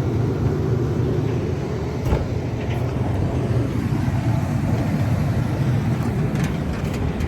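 Combine harvester running steadily with a low hum, with a couple of faint knocks.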